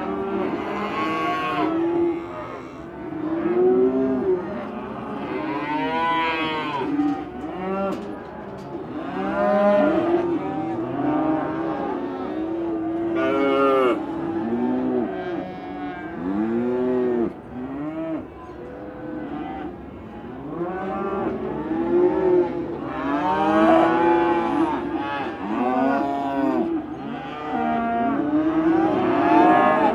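A large herd of cattle, cows and oxen, mooing and bellowing together, many overlapping long calls at once that rise and fall in pitch.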